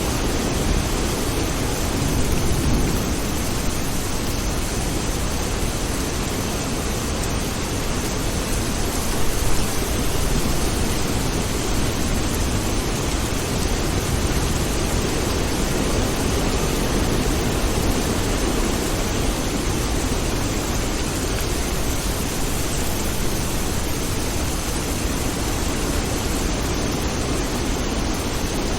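Steady rain falling as an even, unbroken hiss, with a brief louder patch about nine seconds in.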